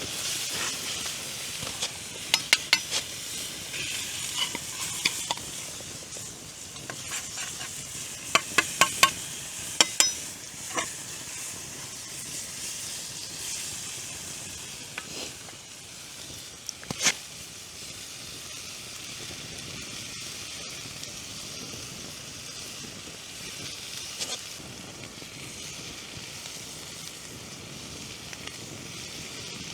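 Food sizzling and frying in a pan over a campfire, a steady hiss. Sharp clicks and knocks come in clusters through the first ten seconds, with a single louder knock about seventeen seconds in.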